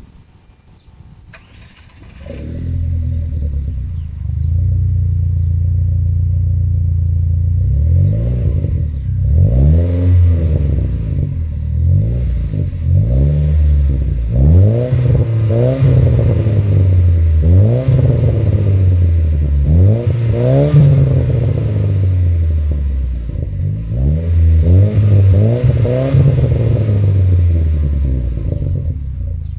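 Opel Vectra C GTS 2.0T's turbocharged four-cylinder starting about two seconds in through a straight-through 2.5-inch catback exhaust with no middle silencer and Buzzer rear mufflers, idling, then blipped repeatedly, each rev rising and falling back, before settling to idle near the end. The start-up sound is slightly distorted.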